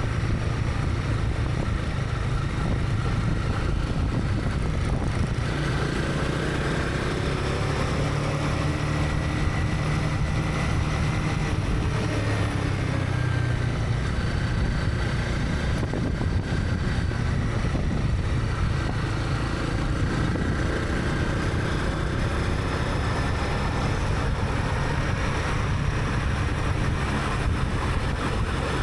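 Honda CB300R's single-cylinder engine running steadily while riding in traffic, heard from a helmet camera, with the faint shifting pitches of other engines around it.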